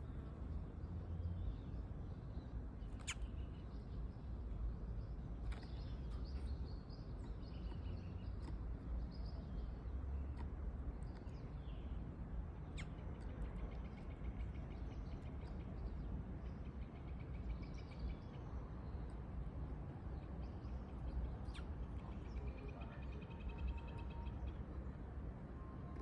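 Birds chirping and trilling now and then over a steady low rumble, with a few sharp clicks.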